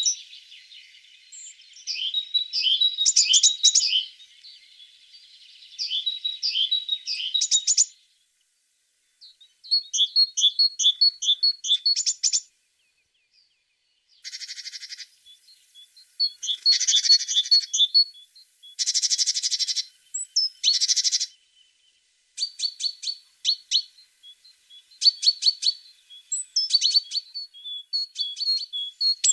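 A tit singing: short phrases of quick, high, repeated notes, each phrase lasting a second or two, with brief pauses between them. Around the middle come a few harsh, buzzy notes of a second or two each.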